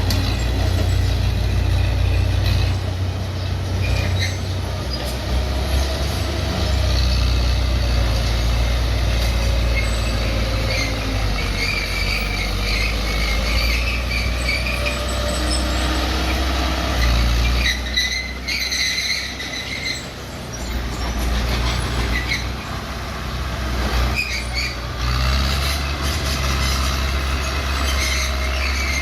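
Bulldozer's diesel engine running steadily, with high squeals from the steel tracks now and then; the engine eases off briefly about two-thirds of the way through.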